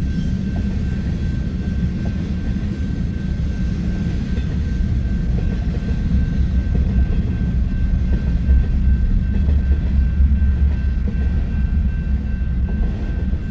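Freight cars of a passing manifest train rolling by, a steady low rumble of wheels on rail that swells a little in the middle, with a thin steady high-pitched tone above it.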